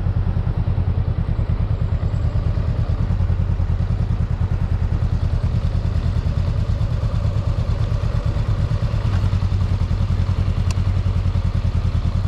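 Motorcycle engine running steadily with an even, fast low pulse. A single sharp click sounds about two-thirds of the way through.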